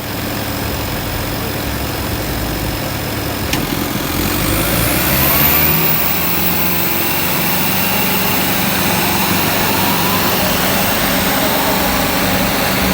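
Diesel tractor engines of a John Deere 5310 and a Sonalika running hard, as in a tractor tug-of-war pull. They get louder about four seconds in and then hold steady. A single click comes a little before that.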